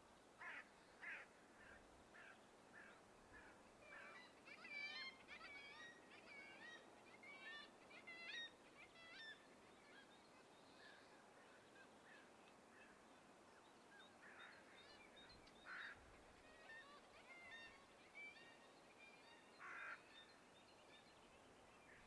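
Faint bird calls: a couple of short calls at first, then a busy run of quick chirping calls from about four to nine seconds in, and scattered calls again later, over a faint steady hiss of background air.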